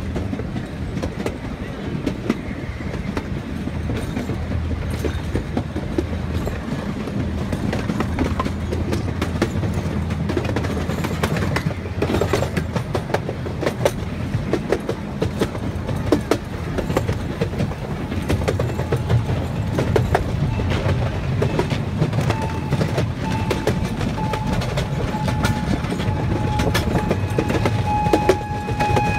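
Chance Rides C.P. Huntington park train running along narrow-gauge track: a steady low rumble with frequent clicks from the wheels over the rail joints. About three-quarters of the way through, a pitched tone starts, sounding in short repeats.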